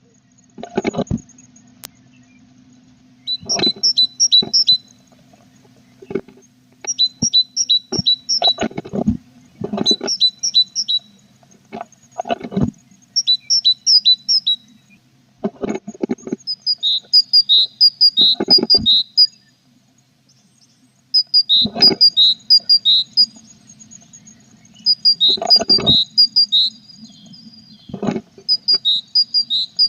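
Tit nestlings in a nest box calling in short bursts of rapid high chirps, repeated every few seconds, with low knocks and scuffles from movement inside the box.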